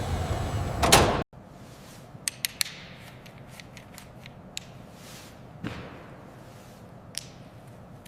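Workshop tool and metal-handling sounds. A steady machine-like noise ends in a loud knock and cuts off abruptly about a second in. After it come a quick run of three sharp clicks and a few single light taps and clicks.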